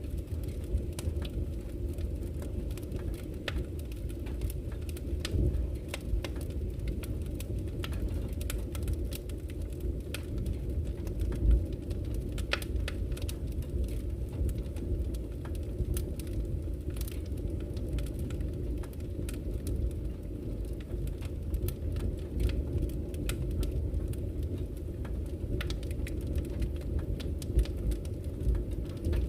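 Wood campfire crackling with frequent sharp pops and snaps, over the steady low rush of flowing river water. One louder pop comes about halfway through.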